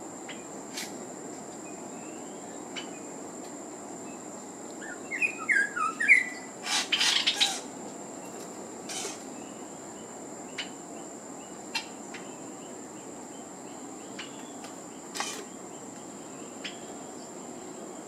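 A small brown bird gives a run of short chirping notes about five seconds in, then a louder harsh flurry, and sharp taps sound now and then as it flutters at its reflection in the car window. A steady high insect buzz runs underneath.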